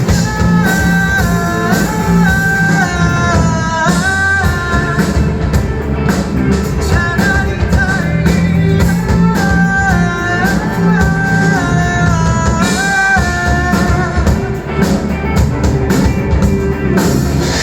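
Rock band playing live in an instrumental break between sung lines: a held, stepping lead melody over bass and drum kit.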